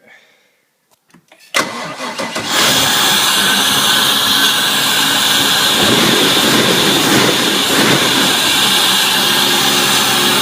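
Inboard engine of a 1996 MasterCraft ProStar 190 ski boat being started: a second of cranking about a second and a half in, then it catches and runs loud and steady.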